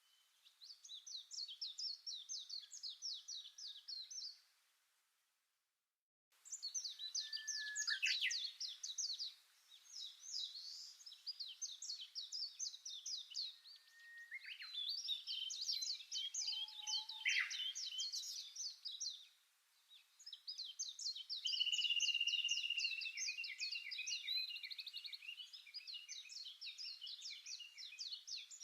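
Songbirds singing in fast trills of rapid repeated high notes, phrase after phrase with short gaps, breaking off briefly about five seconds in.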